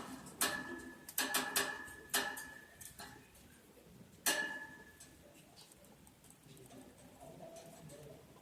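Lovebirds moving about in their cage: about five sharp taps on metal, each with a brief ring, in the first half, then faint scratching and rustling.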